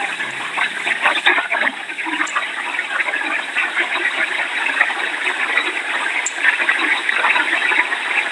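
Hurricane wind and rain rushing steadily, a dense flickering hiss that swells and eases without a break.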